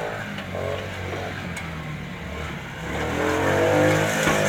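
Child's quad bike running, its motor pitch rising and getting louder about three seconds in as it speeds up.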